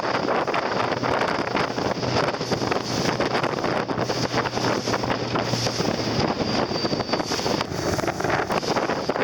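Wind buffeting the microphone on a boat on the water, with the rush of water and a low steady hum that stops about six seconds in.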